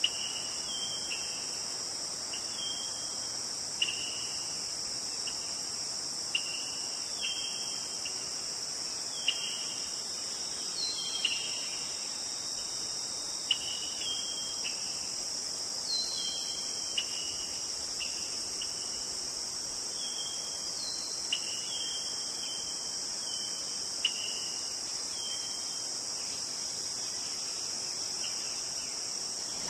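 Steady high-pitched insect chorus, crickets or similar, with short falling bird chirps repeating about once a second.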